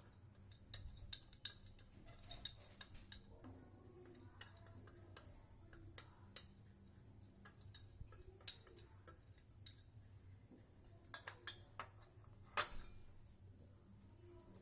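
A spoon clinking and tapping against a mug, in scattered light clicks with quiet between them; the loudest tap comes near the end.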